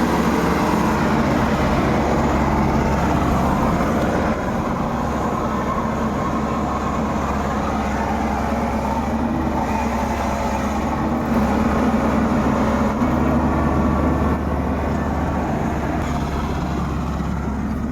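Heavy farm diesel engine running steadily under load, its level dipping slightly about four seconds in and rising again later.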